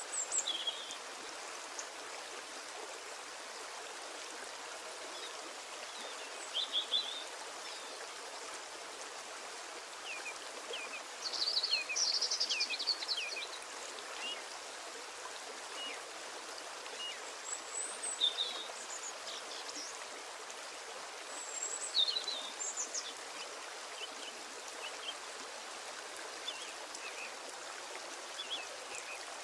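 A steady rushing hiss, like running water, with small birds chirping now and then through it; the chirps come thickest about eleven to thirteen seconds in.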